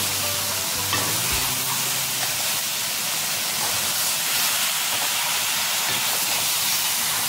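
Raw chicken pieces and masala sizzling steadily in a hot stainless-steel pan while a spatula stirs and turns them.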